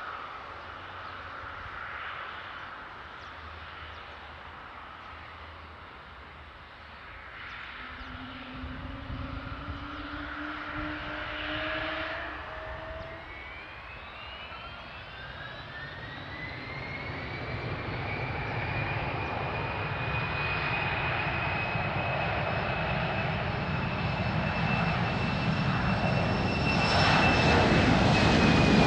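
Business jet's turbine engines spooling up: a whine rises in pitch from about halfway through and levels off, while the jet's roar keeps building, loudest at the end.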